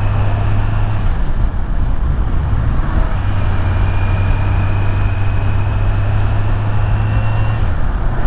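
Kawasaki Z900's inline-four engine running under way, with wind rushing over the microphone. The engine note wavers about a second in and shifts again near the end.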